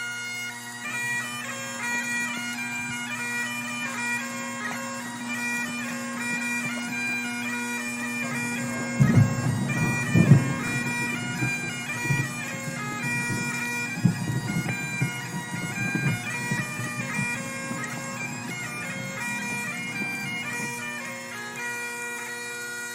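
Highland bagpipe music: steady drones under a moving chanter melody. From about nine to sixteen seconds in, several louder, rough, low sounds break in over it.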